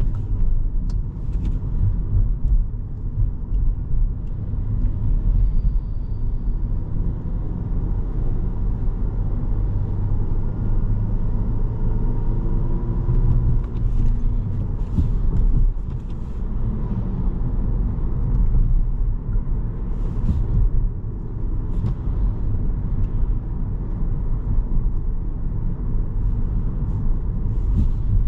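Inside a 2017 Volkswagen Jetta SE with a five-speed manual as it is driven: a steady low rumble of engine and road noise, with a few faint engine pitch changes and scattered light clicks.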